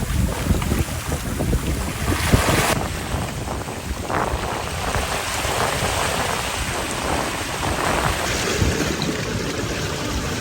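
Wind buffeting the microphone with a low rumble, over the steady wash of sea surf.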